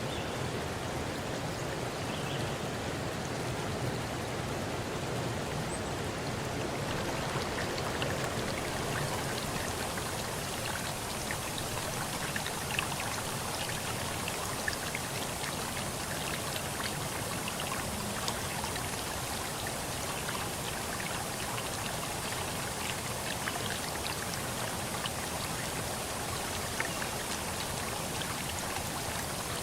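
Steady rush of running water, with small drips and splashes ticking through it; the hiss grows brighter about eight seconds in.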